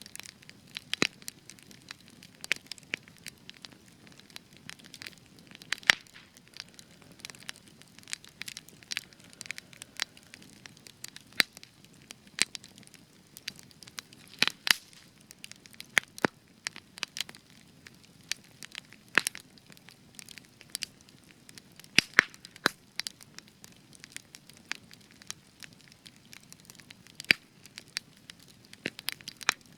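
Spruce wood burning in an open fire, crackling and popping irregularly, several sharp pops a second over a faint low rush of flame.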